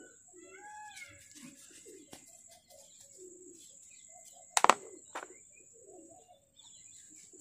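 Birds chirping faintly in the background, with a faint steady high-pitched tone throughout. About halfway through come two sharp knocks, the first the louder, about half a second apart.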